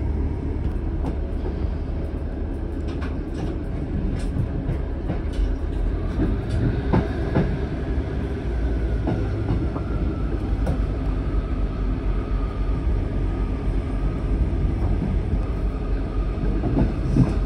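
Passenger train on the move, heard from inside the carriage: a steady low rumble with irregular sharp clicks from the wheels over rail joints and points, and a faint whine above it.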